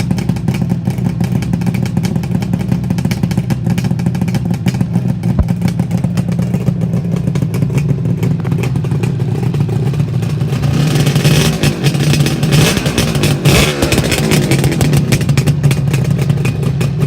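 1977 Suzuki GT550A air-cooled two-stroke triple running through Gibson 3-into-4 expansion-chamber exhausts, idling steadily. About two-thirds of the way through, the throttle is blipped a few times, the revs rising and falling before it settles back to idle.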